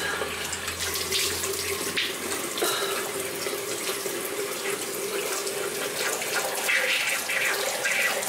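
Water running steadily from a bathroom tap into a sink, with irregular splashing as hands scoop water to wash a face.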